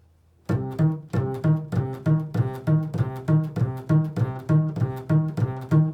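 Improvised plucked-string music played as a steady run of repeated notes, about three a second, built on the interval of a third. It starts about half a second in.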